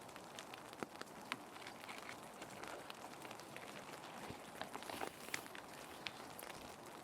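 Plastic sheet protectors softly rustling and crinkling as they are handled, with a few sharper crackles about a second in and around five seconds in, over a steady hiss of rain.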